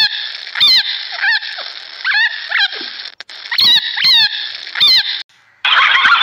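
Geese honking: about eight short calls, each dropping in pitch, coming in loose pairs. Near the end the calls stop and a dense, busy noise cuts in.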